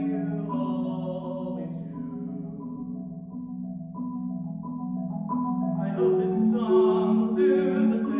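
Solo marimba playing a slow passage of sustained chords, softer in the middle and swelling louder with higher notes entering about six seconds in.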